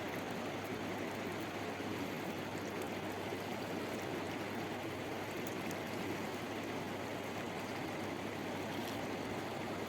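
Rushing river water, a steady even rush with no change.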